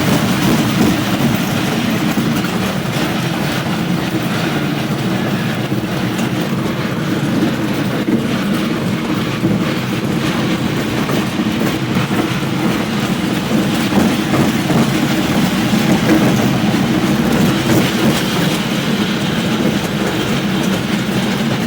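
High-speed train running: a steady rumble with faint, irregular clicks of the wheels on the rails.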